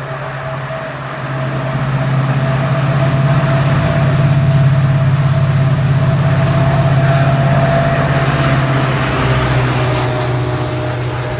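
Diesel train's engine running as it passes: a steady deep drone with a thin whine above it, growing louder over the first two seconds and easing off near the end.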